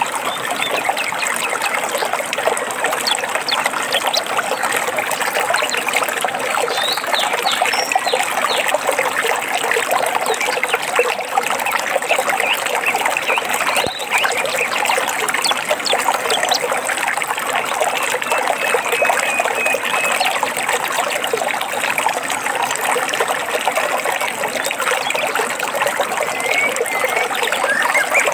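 A small stream trickling and babbling steadily, with a few faint bird chirps now and then and a short run of repeated bird calls a little past halfway.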